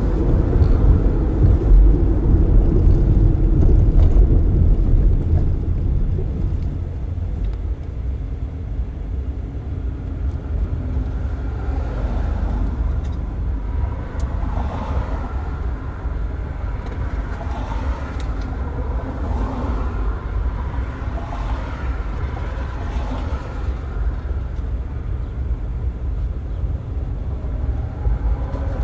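Road and traffic noise heard through a car's open windows while driving: a low tyre and road rumble, loud at first, that drops to a lower, steady level about six seconds in.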